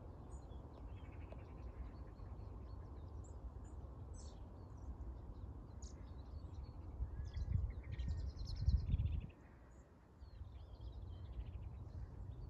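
Small birds chirping and trilling in a hedgerow-and-field setting over a low rumble on the microphone. The rumble swells about seven seconds in and drops away just after nine seconds.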